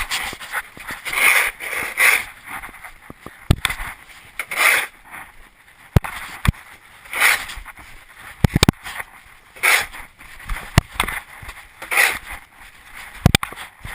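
A 1/8 scale RC monster truck running in repeated short bursts about every two and a half seconds, with sharp knocks in between.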